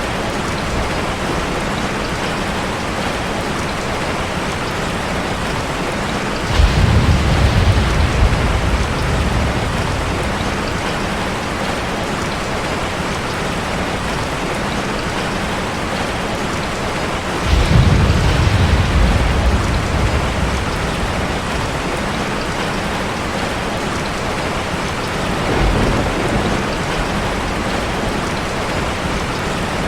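Steady rushing water, a dense even hiss, from a water-and-fireplace ambience track. Deep rumbles break in suddenly three times, about seven and eighteen seconds in, each lasting a few seconds, then a weaker one near the end.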